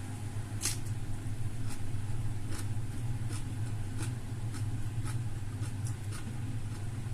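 Close-miked eating sounds, with faint scattered clicks and smacks of chewing, over a steady low hum.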